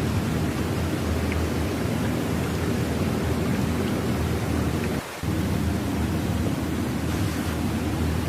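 Steady low rumbling noise with no clear pitch or rhythm, dropping out for a moment about five seconds in.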